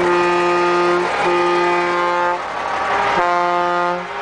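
Truck air horn sounding three long, steady blasts with short breaks between them.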